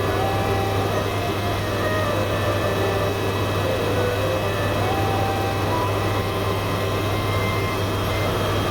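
Helicopter cabin noise: the engine and rotor give a steady drone with a constant low hum.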